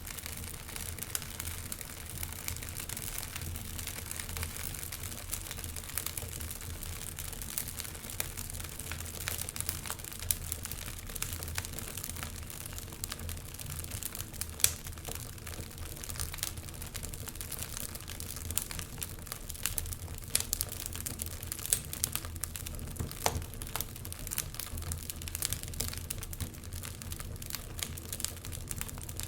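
Wood fire of burning logs crackling steadily, with frequent small sharp pops and snaps.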